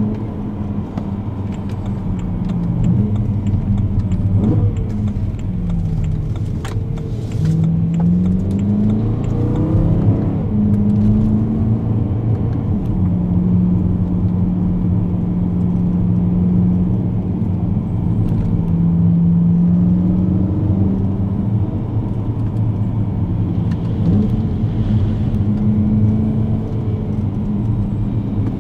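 BMW E92 M3's V8 engine with an aftermarket Tubi exhaust, heard from inside the cabin while driving. The engine note rises and falls with the throttle, holds steady for several seconds in the middle, and climbs again near the end.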